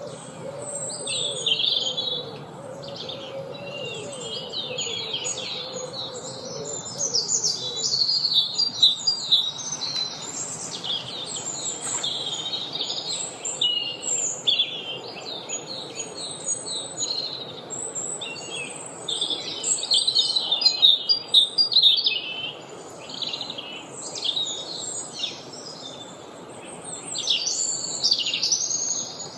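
Dawn-chorus-style woodland birdsong: several songbirds singing and calling at once, a dense overlapping run of high chirps, trills and whistles. A low wavering tone sounds underneath for the first several seconds.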